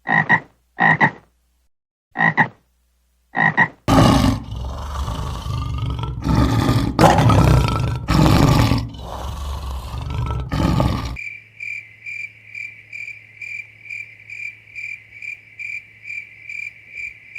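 A run of animal calls: four short calls about a second apart, then several seconds of loud, rough, drawn-out calls, and then a steady high-pitched pulsing trill of about three pulses a second.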